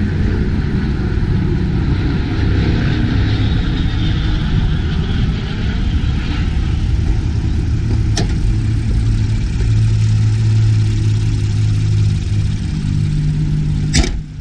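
A car engine running steadily near idle, with a sharp click about eight seconds in and a louder one near the end.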